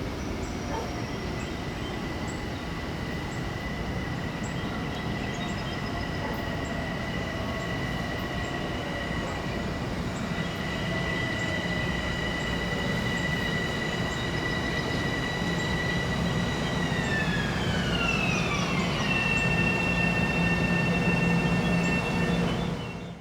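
Metro-North electric multiple-unit train (Bombardier M7) running on the rails, its traction motors whining in a steady high tone over the rumble of wheels on track. About seventeen seconds in the whine glides down in pitch and then holds lower as the train slows.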